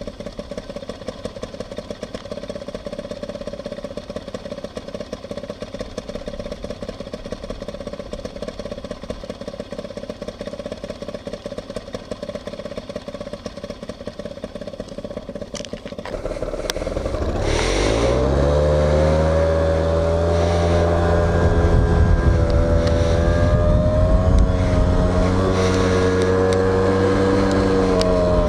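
Motorcycle engine running steadily at low revs. About sixteen seconds in it revs up and pulls away, then settles into a louder, steady run.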